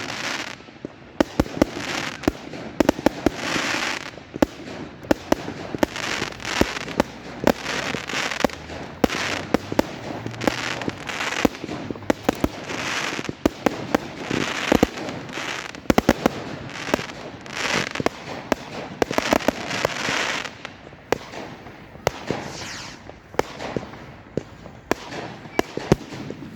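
Fireworks going off continuously: a rapid barrage of sharp bangs and crackling, with hissing bursts every second or so.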